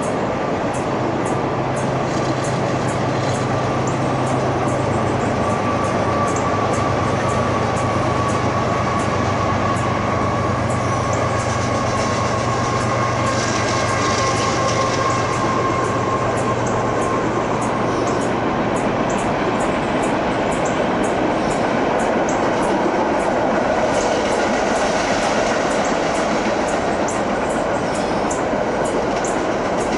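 Freight train rolling past: a steady rumble of wheels on rail with frequent sharp clicks. The low hum of a CSX diesel locomotive running mid-train fades out about two-thirds of the way through, and a steady whine is heard in the middle.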